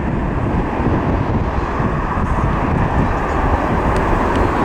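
Boeing 747-400 freighter's four jet engines at takeoff power, making a loud, steady rumble.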